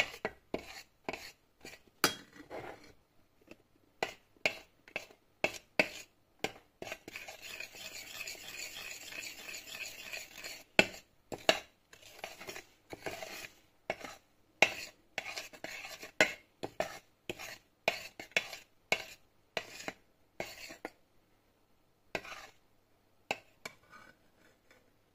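Utensil stirring honey and baking soda as they heat in a saucepan, scraping and tapping against the pan about one or two times a second, with a few seconds of steady scraping about a third of the way in. This is the stage where the honey is cooked with soda until it foams and turns brown.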